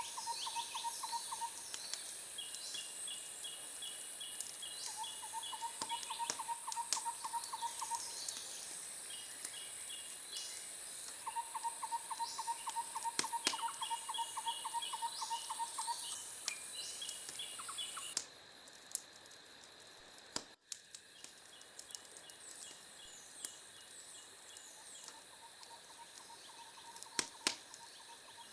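Night insects chirping in repeated pulsed trills over a steady high-pitched buzz, with a few sharp pops of a crackling wood fire. About two-thirds of the way through, the buzz cuts off suddenly and the whole sound drops quieter, while the trills continue.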